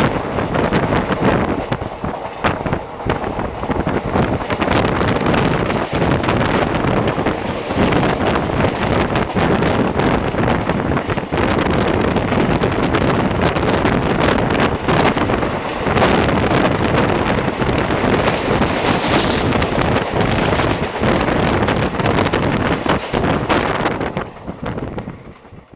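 A moving passenger express train heard from on board: heavy wind buffeting the microphone over the running noise and irregular clatter of the coach on the track. It fades out near the end.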